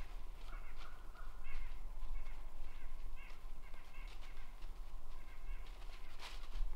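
Birds calling in short repeated notes, with scattered crunching of dry leaves underfoot as a deer walks.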